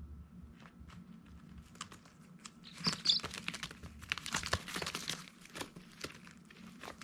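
Baby chicks rustling and scratching, a dense patter of crinkling clicks that builds about two seconds in and fades after about six seconds, with a couple of brief high peeps around three seconds in.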